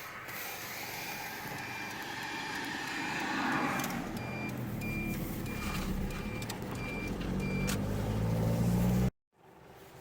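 Vehicle engine running as it pulls away, growing louder, with a short high electronic beep repeating roughly twice a second. The sound cuts off abruptly about nine seconds in, leaving a faint background.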